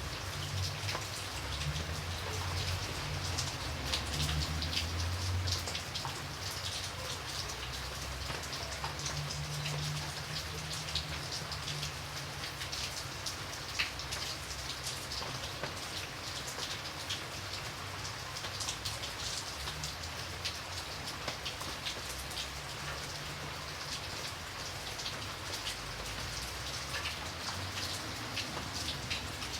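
Steady rain falling, with many individual drops pattering on a surface and a low rumble that comes and goes underneath.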